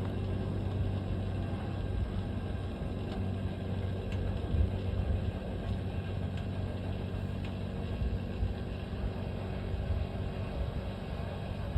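A motor running with a steady low hum and a few light knocks.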